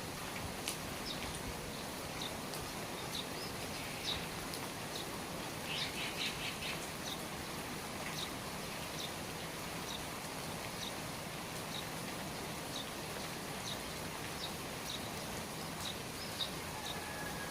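Steady rain falling, with a small bird repeating short high chirps about once or twice a second and a quick trill of several notes about six seconds in.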